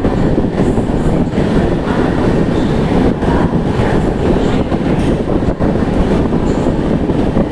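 Duronto Express passenger train running at speed, a loud, steady rumble of wheels on rails with faint scattered clicks.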